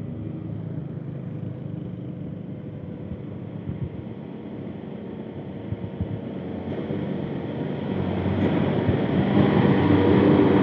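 Heavy truck's diesel engine running with a steady drone, getting louder over the last few seconds.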